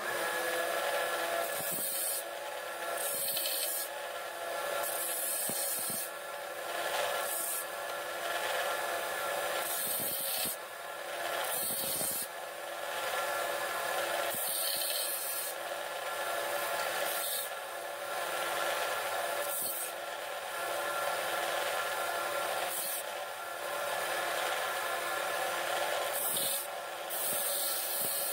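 Oak knife handle being shaped by hand with an abrasive, rubbing strokes against the wood about every one to two seconds, over a steady background hum.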